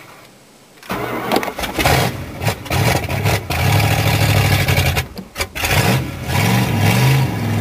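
1986 Dodge Ram 250's 318 V8 with a two-barrel Holley carburettor starting cold after five months of sitting. It catches about a second in and runs unevenly, nearly dies around five seconds in, then picks up with rising revs and settles into steady running.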